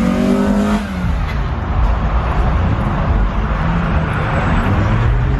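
Car engine running with a low rumble whose pitch drifts up and down slightly; background music cuts off about a second in.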